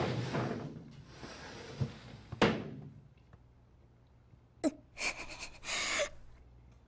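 Sound effects: a rush of noise that fades away, a single sharp knock about two and a half seconds in, then a short hiss near the end.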